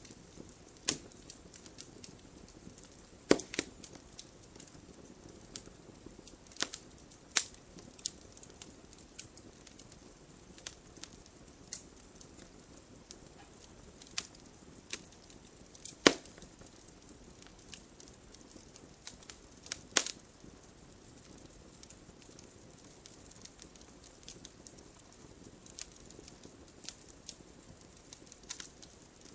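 Wood fire crackling: a soft steady hiss with irregular sharp pops and snaps, a few louder pops standing out.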